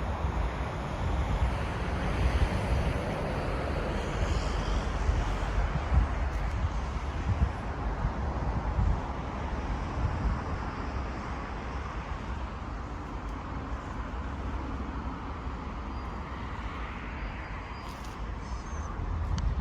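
A train running through the station: a steady rumble and rush that eases off slightly in the second half, with wind buffeting the microphone.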